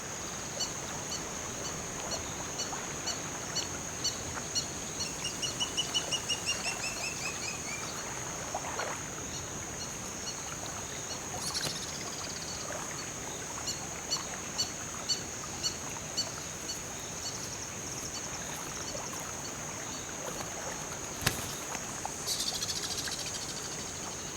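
Riverbank birds calling in short repeated chirps, with a fast descending run of calls about five to eight seconds in, over a steady high-pitched drone.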